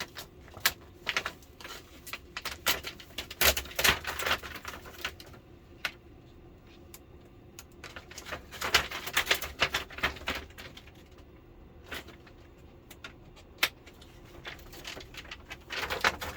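Irregular clicks, taps and light rattles of parts being handled and prised at while the LCD television's backlight assembly is taken apart, busiest in the first few seconds and again around the middle.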